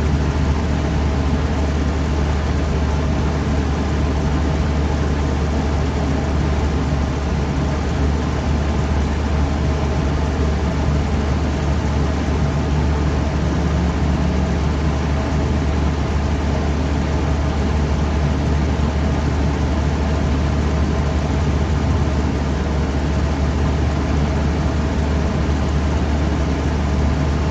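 1998 Lennox air-conditioner condenser unit running steadily: its fan motor runs with a constant low hum and airflow noise while the compressor stays off. The technician suspects the compressor is out on thermal overload.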